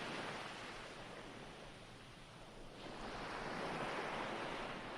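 Recorded ocean waves washing on a shore: one wave's wash fades away, and a new wave rushes in and swells about three seconds in.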